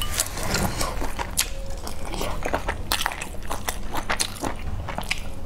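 Close-miked chewing of boiled dumplings, with many short, sharp wet mouth clicks and smacks scattered throughout.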